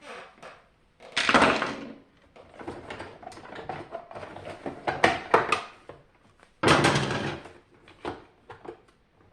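Dehumidifier parts being handled during disassembly: scattered clicks and knocks, with two louder scraping clatters, one about a second in and one near seven seconds.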